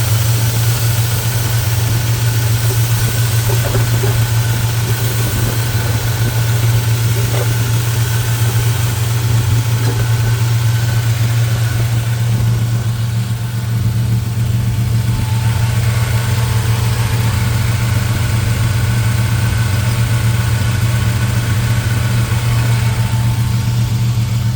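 1974 Chrysler Imperial's 440 cubic-inch V8 with a four-barrel carburettor idling steadily, warming up after a cold start from long storage.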